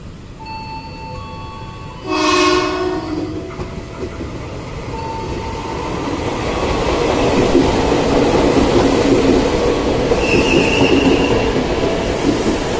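Tokyo Metro 6000-series electric commuter train sounding its horn once, about two seconds in, then running in past the platform, its rumble building and staying loud. A short high squeal comes near the end.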